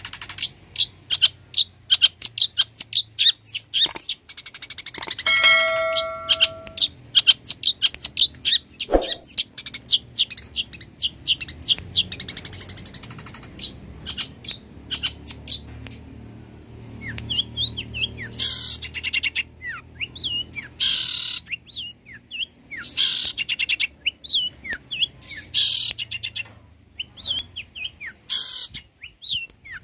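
Long-tailed shrike (cendet) singing a fast stream of high chirps and copied calls from other birds. In the second half the chirps are broken by several loud, harsh rasping bursts.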